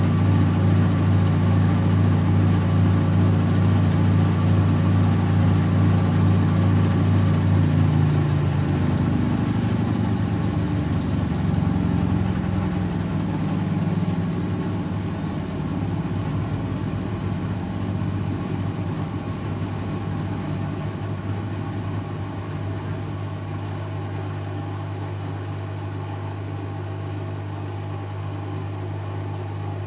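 Servis M3008B washing machine in its final 800 rpm spin, the drum running steadily at speed, then winding down from about eight seconds in as the spin ends. The sound eases to a quieter, steady hum as the drum slows.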